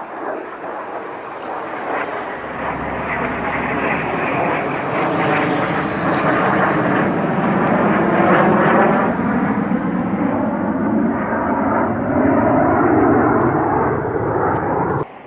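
Airplane flying past, its engine noise building to a loud peak about eight to nine seconds in and staying loud until it cuts off suddenly near the end.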